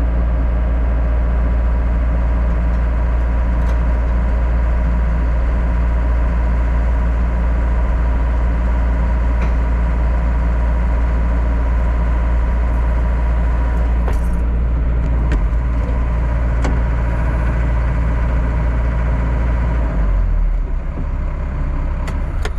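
John Deere 60G compact excavator's diesel engine running steadily at idle, with a few light clanks, then shut off about 20 seconds in.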